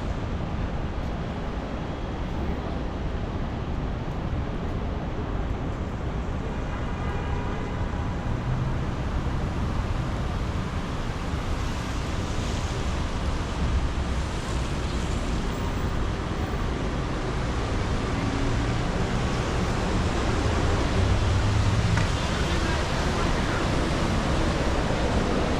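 City street traffic on wet roads: a steady low rumble of passing vehicles under a constant hiss, growing a little louder in the second half.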